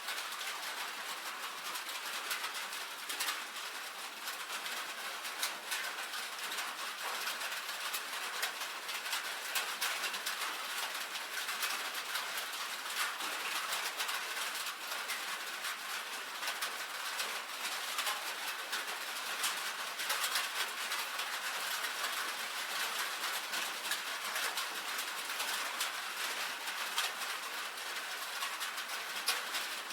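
Rain falling steadily on a tin roof: a dense, even patter of many drops ticking on the metal.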